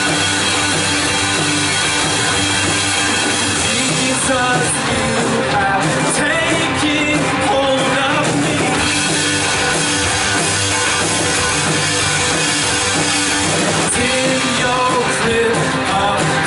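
Live worship band playing a full rock-style arrangement with guitar and drums, with a singing voice coming in at times.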